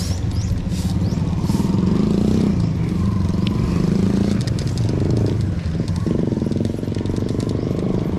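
A vehicle engine running steadily on the road, its pitch shifting a little as it changes speed.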